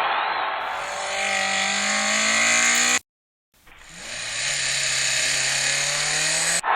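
Car engine revving, its pitch climbing steadily, twice, cut off abruptly in between by about half a second of silence.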